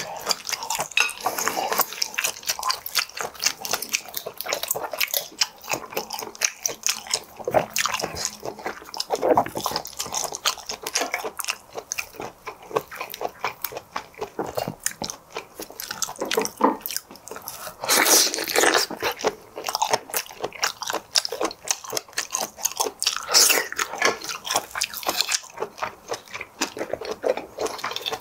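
Close-miked chewing and biting of shellfish such as whelk meat: a dense run of small crisp, wet mouth clicks, with a few louder stretches of chewing.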